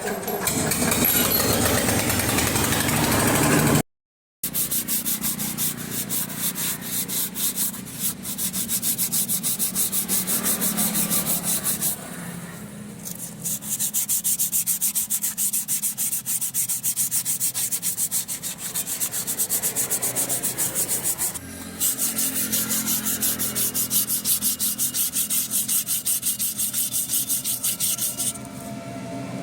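Hand abrasive rubbing on a part during a wheel-bearing job: rapid, rhythmic scraping strokes like sanding or filing, with a brief dropout about four seconds in and short pauses along the way.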